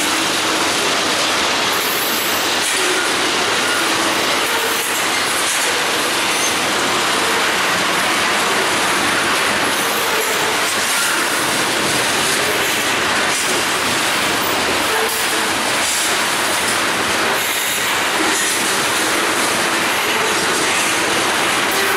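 A freight unit train of ethanol tank cars rolling past, a steady loud noise of steel wheels on rail with clickety-clack and faint wheel squeal that comes and goes.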